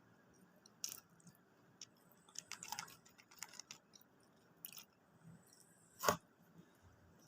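Close-up chewing and crunching of fast food, a scatter of short crisp crunches with a cluster about two and a half seconds in and one louder, sharp crunch about six seconds in.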